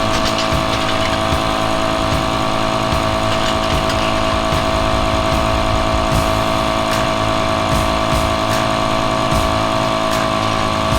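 A motor running steadily with a constant whine, and scattered light clicks over it.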